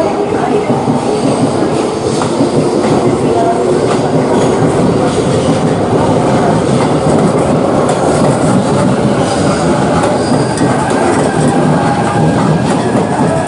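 Electric train running on rails: a steady, loud rumble of wheels on track with a faint steady whine.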